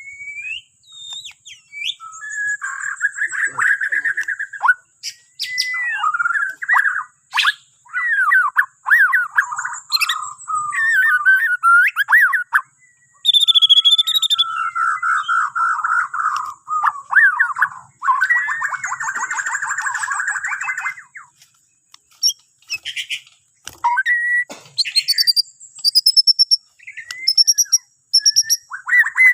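White-rumped shama (Bornean murai batu) singing a long, varied song: dense rapid trills alternating with clear rising and falling whistled notes and sharp clicks, broken by short pauses.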